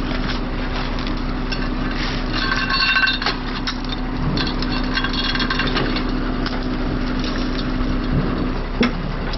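Heavy truck engine running steadily, with scattered metal clinks and knocks from towing and rigging work. A brief high metallic squeal comes about two and a half seconds in, and the engine hum drops away shortly before the end.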